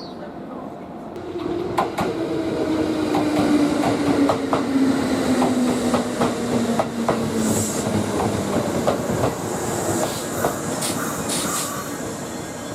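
Kintetsu limited express electric train running past the platform, its wheels clicking over rail joints, with a motor tone that slides steadily down in pitch for several seconds.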